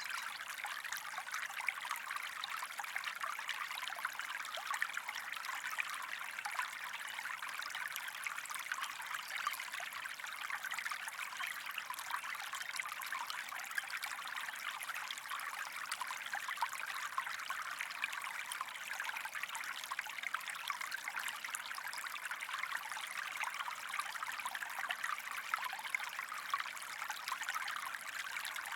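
A stream of water flowing steadily, an even rush made up of many small splashes.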